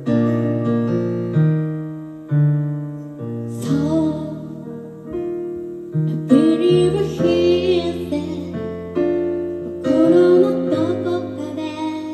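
Live music: electric piano playing the chords and melody of a slow song.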